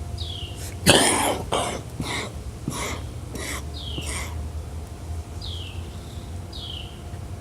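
Birds giving harsh alarm squawks, about six in quick succession starting about a second in, with short falling chirps scattered through; the birds are scolding a cat.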